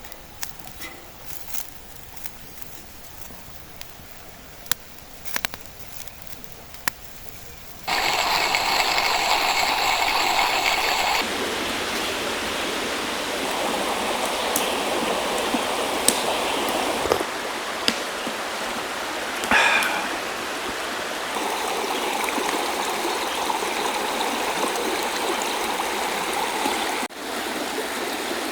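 Rushing water of a stream, coming in suddenly about a third of the way in and shifting in level and tone several times, like cuts between shots. Before it there is a quiet stretch with scattered sharp clicks.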